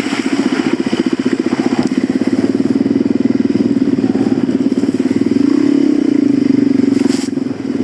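Suzuki DR-Z400 dirt bike's single-cylinder four-stroke engine running under throttle, its rapid firing pulses steady and then picking up a little past the middle before easing off near the end.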